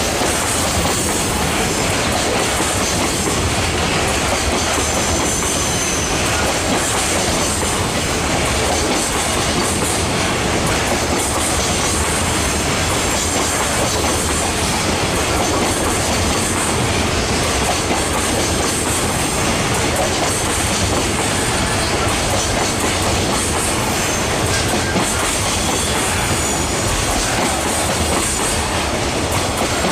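A long freight train's wagons rolling past steadily, their wheels clacking over the rail joints, with now and then a faint high wheel squeal.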